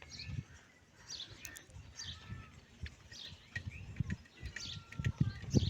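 Small birds chirping in short, repeated calls, with low bumps that grow louder near the end.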